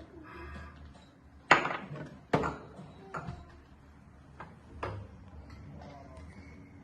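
Several sharp clacks of hard objects striking, the two loudest about a second and a half and two and a half seconds in, then a few quieter ones, each ringing briefly.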